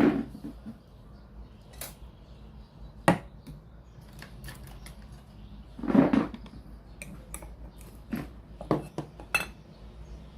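Scattered clinks and knocks of small hard objects being handled and set down, with louder knocks at the start, about three seconds in and about six seconds in, and a run of lighter clicks near the end.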